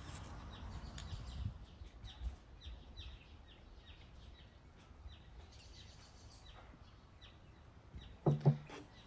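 A bird chirping over and over, short falling chirps a couple of times a second. Near the end a louder knock as a glass bottle is set down on a wooden table.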